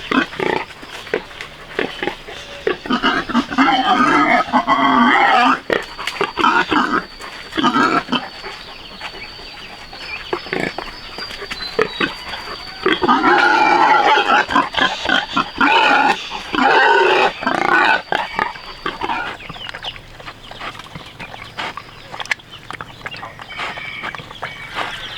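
Pigs squealing in several loud bouts, with a thin, steady high whine from about six seconds in until near nineteen seconds.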